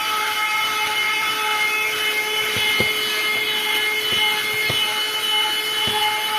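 Vacuum cleaner running steadily with a high motor whine and the hiss of suction as it pulls dirt from a car's carpeted floor mats. A few light knocks come through from about three seconds in.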